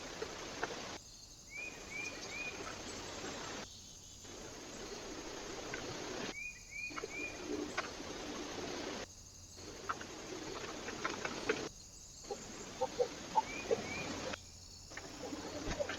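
Small birds calling at a feeder, short chirps in quick groups of two or three, with scattered small clicks over the steady hiss of a trail camera's microphone. The sound breaks off briefly every few seconds where one short camera clip joins the next.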